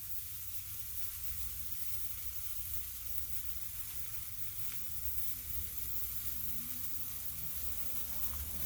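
Quail grilling over charcoal, sizzling steadily with a constant hiss.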